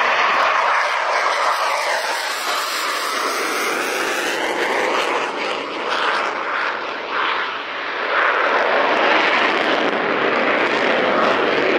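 Military jet aircraft engine roar as a jet passes, loud and continuous, with a sweeping, phasing quality in the first few seconds; it eases slightly past the middle and swells again.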